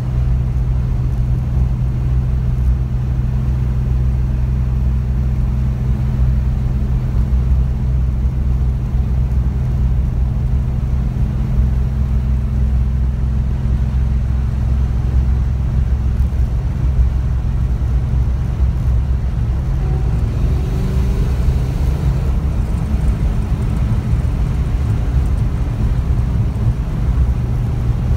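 Fox-body Ford Mustang 5.0's V8 running at a steady cruise, heard from inside the cabin as a low, even drone along with road noise. About twenty seconds in, the engine note shifts and a higher tone briefly comes in.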